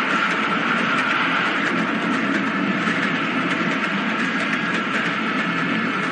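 Passenger train running steadily along the line: a continuous rumble and rush of wheels on rails with faint clicks over the rail joints, used as a sound effect in a radio drama.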